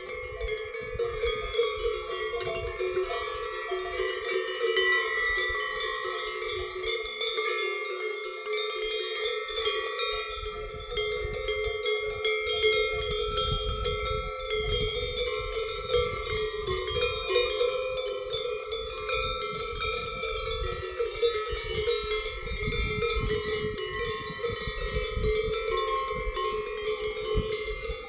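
Cowbells on grazing cows clanking and ringing without pause, several bells of different pitches overlapping.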